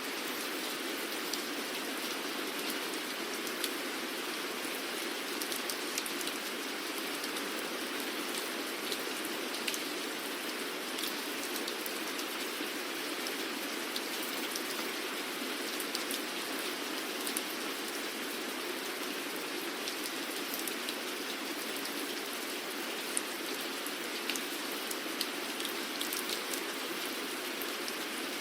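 Steady rain falling on a surface, a continuous hiss with many small drop ticks scattered through it.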